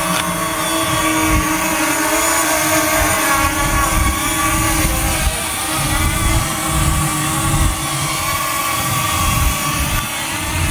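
Small quadcopter drone's propellers whining steadily at several fixed pitches, with strong wind buffeting the microphone in gusts.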